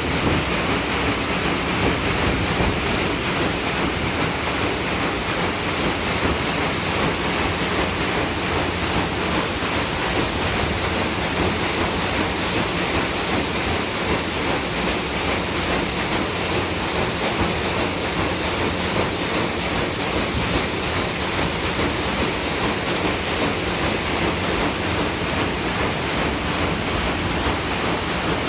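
Steady rushing and splashing of river water churned by the Natchez steamboat's stern paddle wheel.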